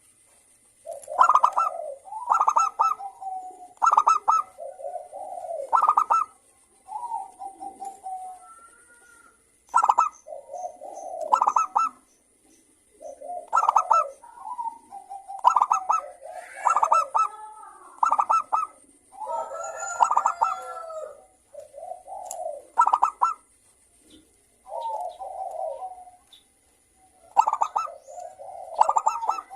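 Zebra doves (perkutut) cooing in repeated staccato phrases that follow one another with short pauses, several birds calling back and forth with some calls overlapping.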